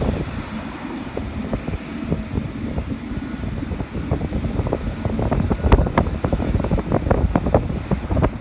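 Wind buffeting the microphone in uneven gusts, with a low rumble underneath.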